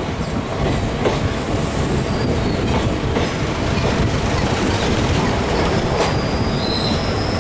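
Passenger train running: a steady rumble of wheels on the rails, with a few faint clicks.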